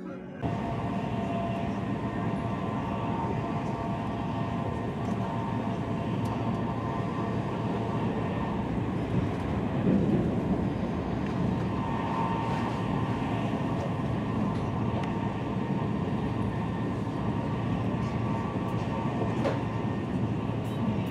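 Steady running noise of a high-speed train heard from inside the passenger cabin: an even rumble and rush with a faint steady whine. It starts abruptly about half a second in.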